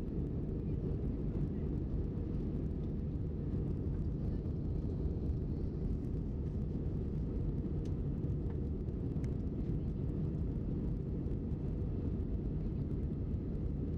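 Steady low drone of an Airbus A320-family airliner's jet engines and airflow, heard from inside the cabin in flight.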